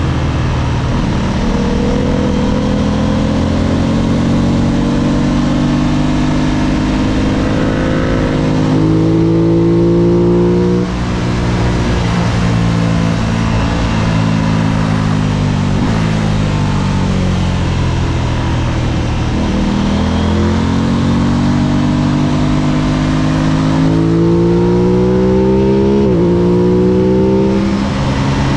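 Aprilia RS660's parallel-twin engine at racing pace, climbing in pitch under hard acceleration, dropping sharply about eleven seconds in and winding down for several seconds, then climbing hard again with brief stutters near the end. A steady rushing noise runs underneath.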